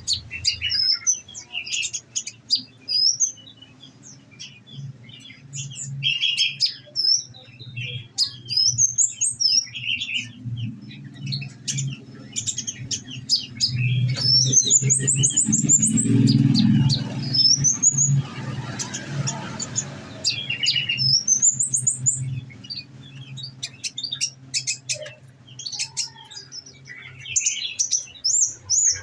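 Olive-backed sunbird (konin) singing: fast runs of sharp, high chirps and quick rising whistled sweeps, the 'shooting' song keepers prize. A steady low hum runs underneath and grows louder for a few seconds in the middle.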